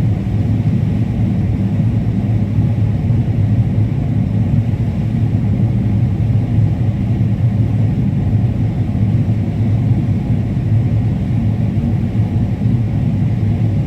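Combine harvester running steadily while harvesting corn, a low even drone of engine and threshing machinery.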